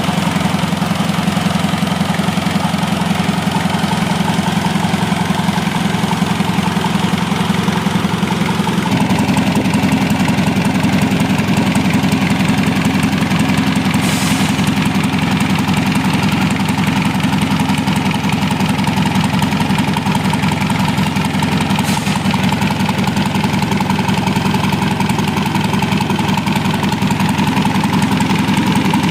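Isuzu C223 four-cylinder diesel engine idling steadily after a general overhaul, its rapid firing pulses even throughout. About nine seconds in its note steps up slightly, and two brief hiss-like noises come later.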